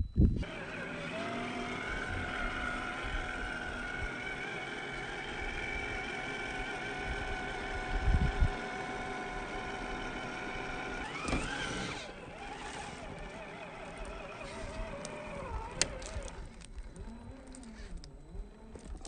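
Electric motor and gear drive of a 1/10-scale RC rock-crawler truck whining steadily, played back at half speed so the whine sounds lower. A low thump comes about eight seconds in; after about twelve seconds the whine drops in level and wavers in pitch.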